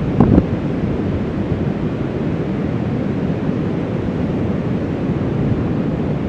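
Ocean surf rushing steadily, with wind buffeting the microphone, and a short louder burst right at the start.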